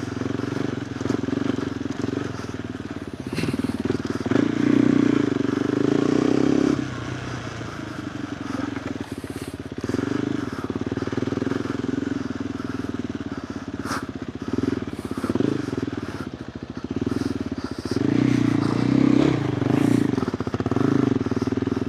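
KTM 390 Adventure R's single-cylinder engine running through a Norifumi Whoops stainless slip-on exhaust while riding a trail at low speed. The throttle opens and eases: louder pulls about four to seven seconds in and again near the end, with a few sharp clicks of stones along the way.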